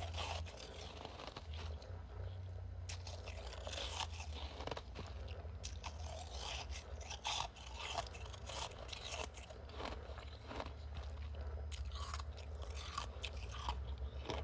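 Freezer frost being chewed: a dense run of irregular crunches and crackles, over a steady low hum.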